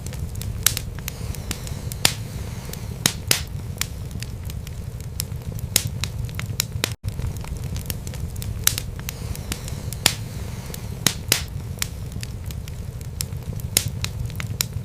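Wood fire burning in a fireplace: a steady low rumble of flames with sharp, irregular crackles and pops from the burning logs. About halfway through, the sound drops out for an instant.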